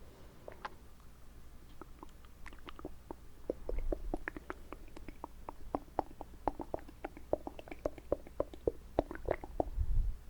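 Mouth sounds made with water held in the mouth: wet clicks and squishes, sparse at first and then a rapid run of several a second from about three and a half seconds in.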